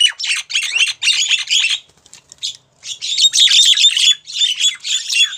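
Female Javan myna calling in a rapid series of harsh, chattering squawks, in two bouts with a short break about two seconds in. It is the female's call to a male, used as a lure.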